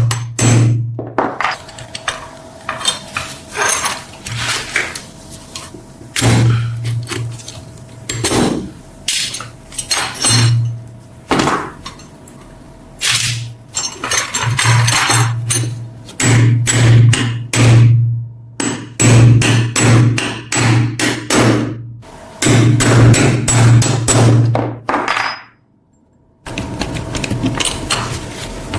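A hammer striking the metal parts of a cast iron corn sheller, in dense runs of sharp blows with a light ring. The blows stop for a moment near the end, then the work starts again.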